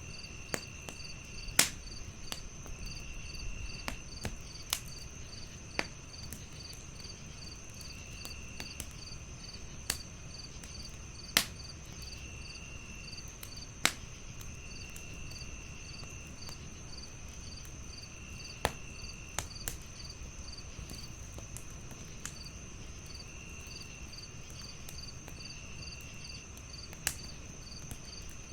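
Wood fire crackling, with sharp pops at irregular moments, a few of them loud. Behind it a chorus of crickets: a steady high chirring, a regular pulsing chirp, and lower trills about a second long that come and go.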